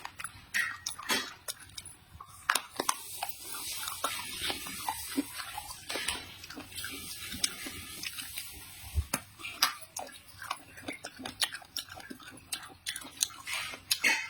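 Close-up eating sounds: chewing eggplant, with many small sharp clicks of utensils against a dish and a soft rustling hiss in the middle stretch.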